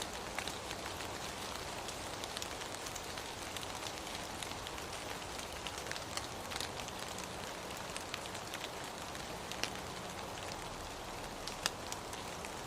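Steady rain falling, a constant hiss with scattered sharp ticks of individual drops hitting nearby surfaces.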